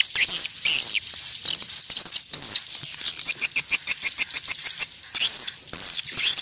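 Swiftlets calling: a dense, continuous run of quick high-pitched chirps, twitters and short buzzy trills. It is the kind of swiftlet call played to lure the birds into nest houses.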